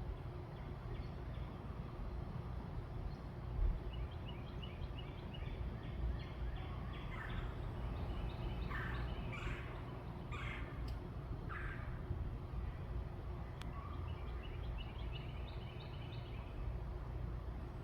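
Backyard birds calling: a rapid trill of short high notes a few seconds in and again near the end, and a run of about five loud, harsh calls in the middle, over a steady low background rumble.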